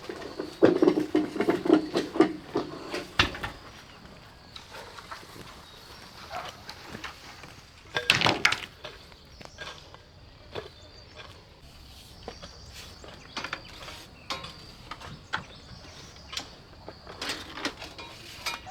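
Irregular wooden knocks and clatter of wood being handled and struck, as in building a shelf. They are densest in the first three seconds, with a loud cluster about eight seconds in and scattered knocks after that.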